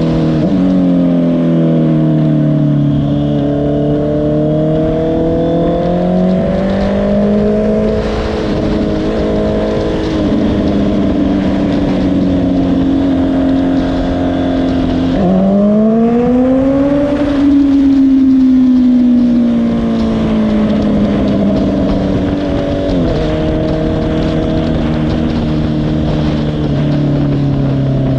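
Honda CBR650R's inline-four engine running under way, its note rising and falling as the throttle and gears change. About fifteen seconds in it drops suddenly, then climbs steeply as the bike accelerates. It drops again about twenty-three seconds in and then holds steady.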